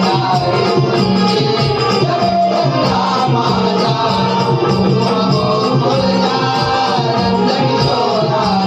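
Konkan naman folk music: a shahir singing over a steady rhythm with jingling hand percussion.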